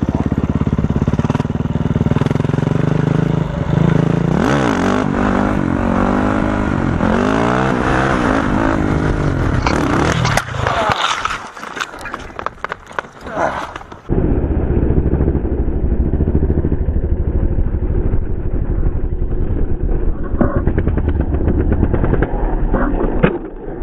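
Motorcycle engine running and revving, its pitch rising and falling repeatedly. About ten seconds in it gives way to irregular clattering and scraping. Then comes a steady motorcycle engine with wind noise.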